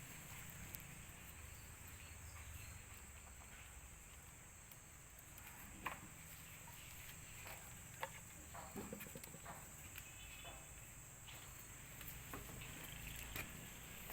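Faint, steady, high-pitched insect chirring, with a few scattered light taps and clicks.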